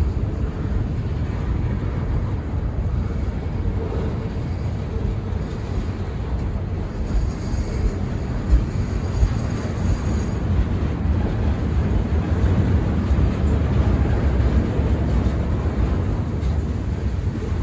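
Freight train rolling past: a steady low rumble of wheels on rail, with a few sharp knocks about halfway through.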